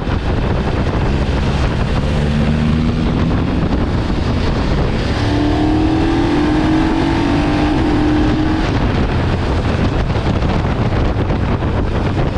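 Motorcycle engine accelerating under heavy wind rush on the microphone. Its pitch rises about two seconds in, and again in a longer climb starting around five seconds.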